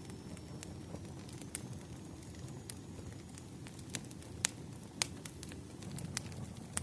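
Burning firewood crackling: a low steady rumble of flame with scattered sharp pops, the loudest a little past the middle.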